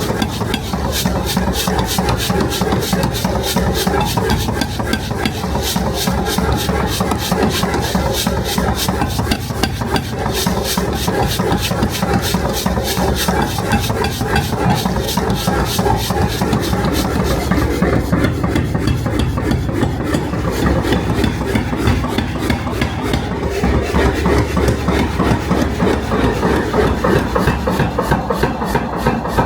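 Metal being worked with an abrasive tool: a steady rasping and rubbing with a fast, even ticking, over a low machine hum.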